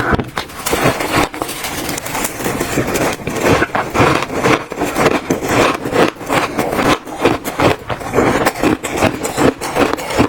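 Close-miked crunching of shaved ice being bitten and chewed: a dense, irregular run of crackles and crunches with short pauses between bites.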